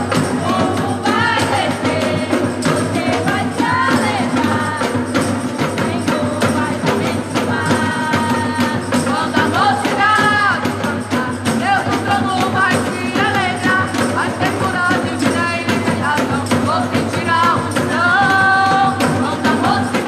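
Live Brazilian gospel band music: sung melody over a full band with tambourine and drums keeping a steady beat.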